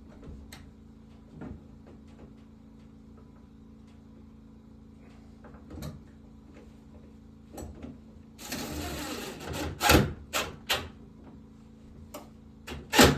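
Scattered knocks, then a rasping noise of about a second about eight and a half seconds in, followed by several loud knocks near the end, over a steady low hum.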